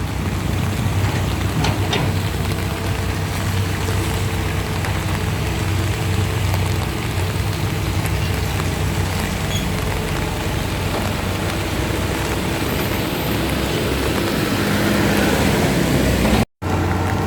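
Heavy rain falling steadily over a vehicle engine running with a low hum. The sound drops out for a moment near the end.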